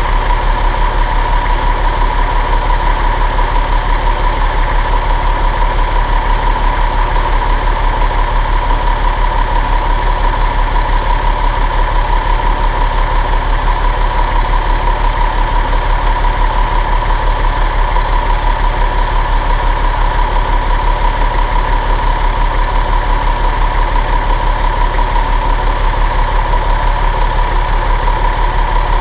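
Caterpillar 3126 inline-six diesel engine idling steadily, with an even, unchanging beat.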